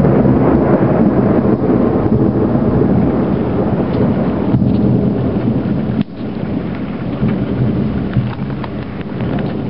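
Thunder rumbling long and loud over heavy rain. The rumble falls away suddenly about six seconds in, leaving steady rain with close drops ticking.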